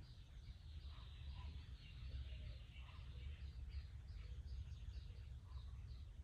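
Faint birds chirping over a low steady rumble, the chirps coming in quick short notes several times a second.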